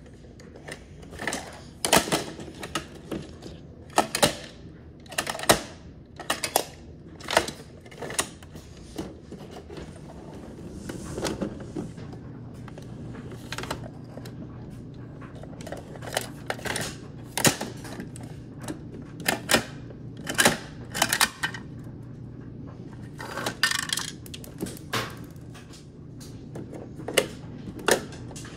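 Irregular clicking and clacking of hard plastic toys being handled and knocked together, in short clusters with pauses between, over a faint steady low hum.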